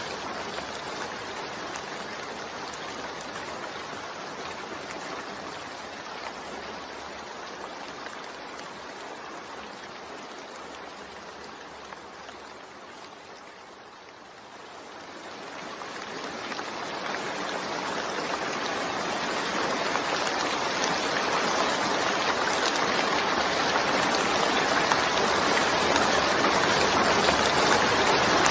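Steady rain: an even hiss that fades down to its quietest about halfway through, then swells back up and is loudest near the end.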